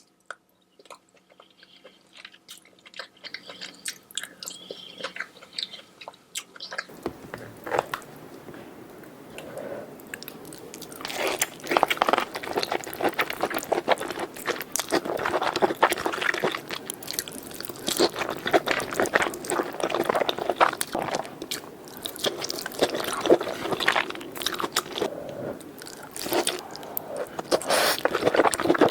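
Close-miked eating sounds of seafood: biting, crunching and wet chewing. The sounds are sparse and quiet at first, then become dense and louder from about seven seconds in.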